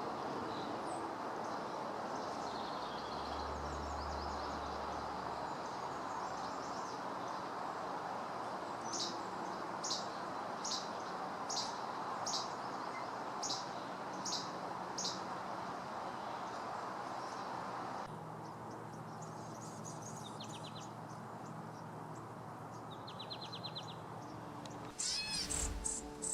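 Wild birds calling over a steady background hiss: a series of about nine sharp high notes, roughly two a second, then a couple of short high trills, with louder calls near the end.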